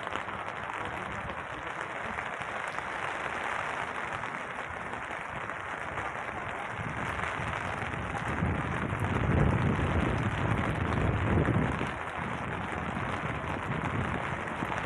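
Steady rain falling on wet pavement, a constant even hiss. From about eight seconds in, a louder low rumbling comes and goes over it.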